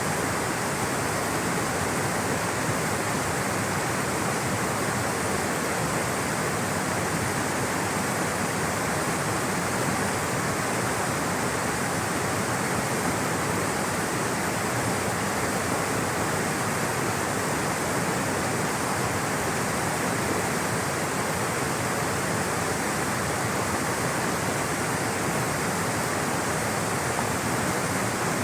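Rushing water flowing steadily, an even, unbroken hiss with no changes.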